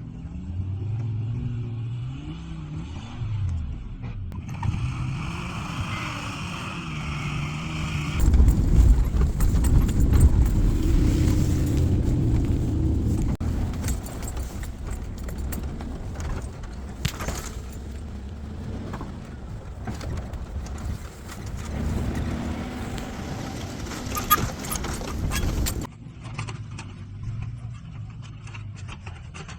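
Suzuki 4x4's engine running and revving as it drives, its pitch rising and falling, with a heavy low rumble from about eight to thirteen seconds in.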